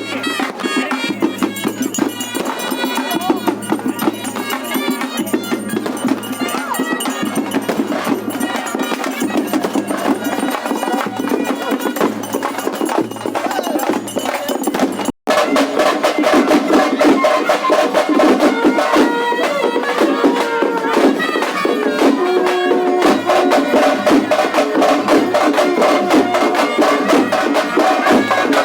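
Loud traditional festival music: fast drumming under a piping melody instrument. It cuts out for a split second about halfway through and comes back louder.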